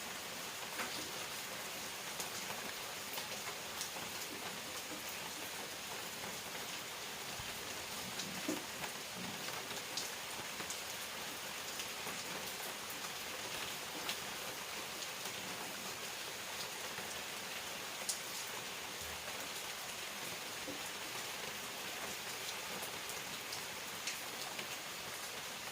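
Steady rain falling, a continuous hiss with scattered distinct drops ticking throughout.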